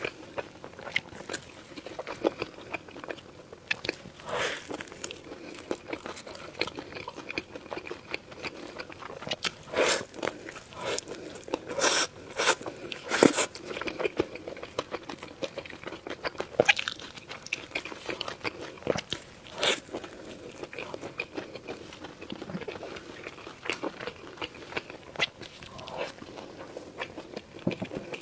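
Close-miked eating: crunchy bites and chewing of crisp food, with sharp crackles and a cluster of louder crunches about halfway through.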